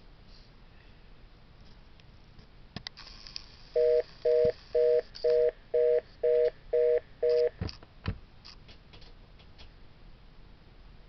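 Telephone fast busy signal: eight short two-note beeps at about two a second, the tone a line gives once the automated call has disconnected. A few clicks of the phone being handled come just before and just after.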